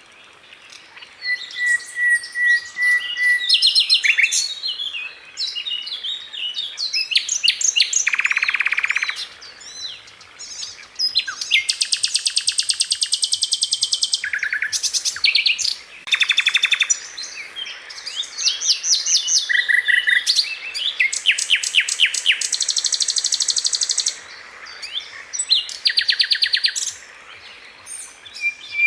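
Sikatan Londo flycatcher singing continuously: high, fast phrases made of tightly packed, rapidly repeated notes in trills, mixed with short whistled notes and brief pauses between phrases.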